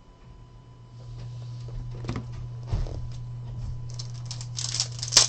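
Trading cards and foil pack wrappers being handled: light rustling and clicking that grows busy and crisp near the end, over a steady low hum.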